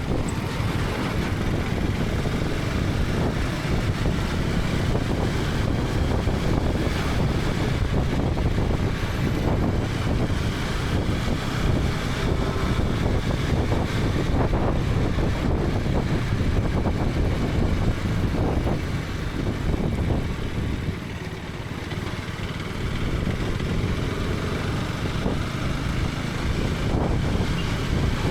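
KTM 250 Adventure's single-cylinder engine running as the motorcycle rides along, with wind rushing over the microphone. The sound drops a little for a moment about three quarters of the way through.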